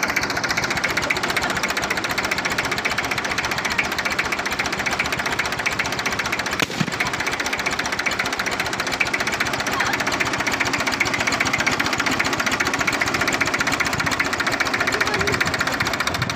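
Tractor engine running steadily with a rapid, even chugging clatter.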